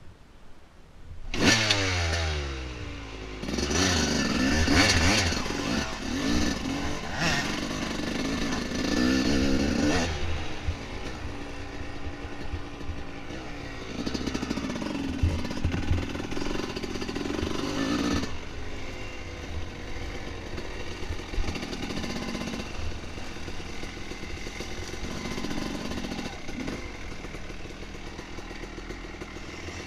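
Dirt bike engine revving hard, with a sharp jump in revs about a second and a half in and repeated rises and falls in pitch over the first ten seconds. It then runs at lower, steadier revs, picking up briefly a few more times.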